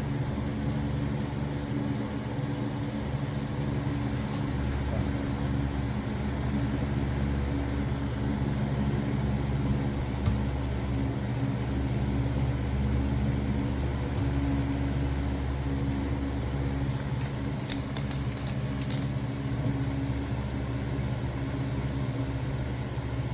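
Lasko box fan running on high speed: a steady rush of air over a constant motor hum, fairly quiet for its power. A few faint clicks come about eighteen seconds in.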